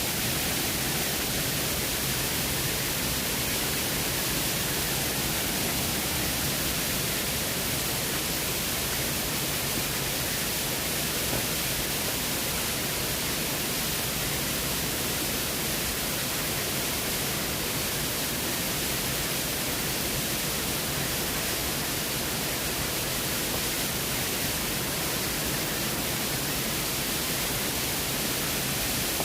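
Waterfall's steady rush of falling water, an even, unbroken noise with no changes.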